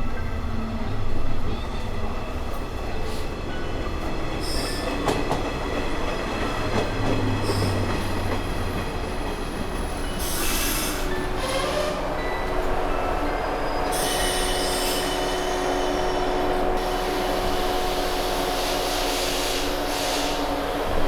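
Inside a San'yō Main Line train running on the rails as it comes into a station: steady rail rumble with wheel squeal and bursts of high hissing, and a steady whine that sets in about halfway through.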